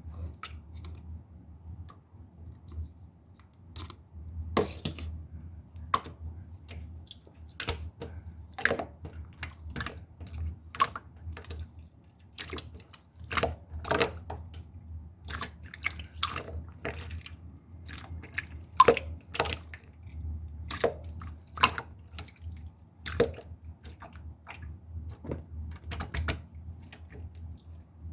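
Pearly slime being pressed and poked by hand, making irregular wet clicks and pops about once or twice a second over a steady low hum.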